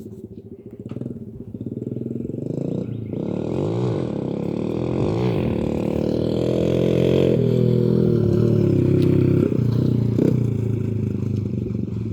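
Dirt bike engine running, its pitch rising and falling as the throttle opens and closes. It grows louder over the first several seconds and eases off near the end.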